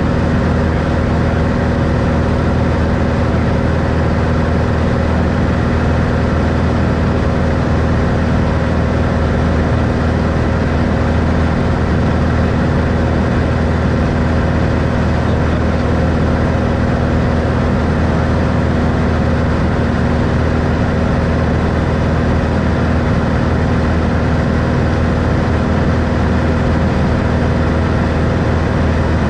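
Six-cylinder engine and propeller of a 1964 Cessna Skylane running at a steady power setting, heard inside the cabin as an unchanging loud drone.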